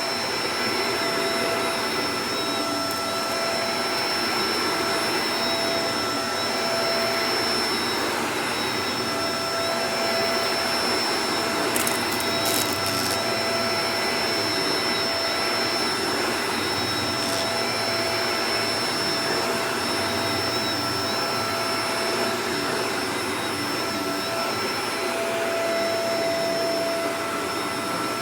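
Shark Professional Powered Lift-Away DLX (NV586) vacuum cleaner running steadily: a rush of air with a steady whine on top, and a few brief ticks about twelve seconds in.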